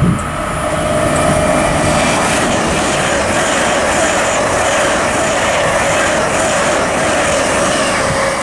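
LNER Class 800 train passing through the station without stopping: a steady rush of wheels on rail with a constant whine, building over the first second.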